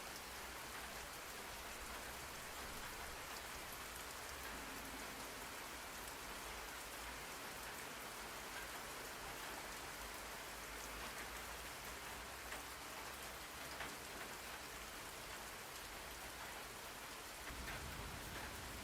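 Steady rain falling and pattering on a surface, with a constant hiss flecked by individual drops.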